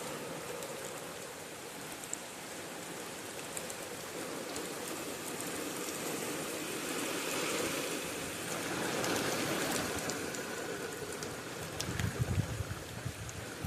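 Steady rain falling, with scattered ticks of single drops. A low, gusting rumble comes in near the end.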